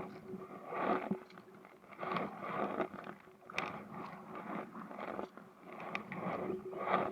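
Kayak paddle strokes, the blades dipping and splashing into the water about once a second, with water dripping off between strokes. A faint steady hum runs underneath.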